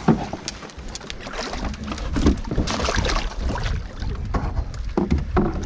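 Canoe on the water: splashing and scattered knocks against the hull, with wind rumbling on the microphone.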